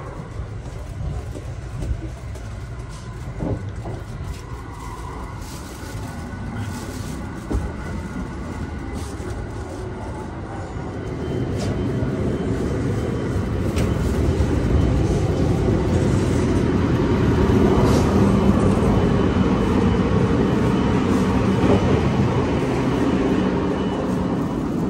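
Low, steady rumble of a sleeper train carriage heard from inside, with a few light knocks; it grows louder about eleven seconds in.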